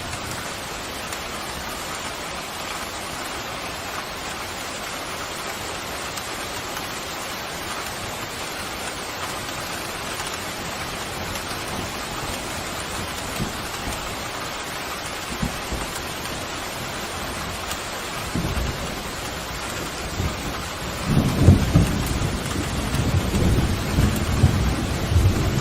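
Pouring rain making a steady hiss. About three-quarters of the way through, a low thunder rumble rolls in and grows louder, and it is strongest near the end.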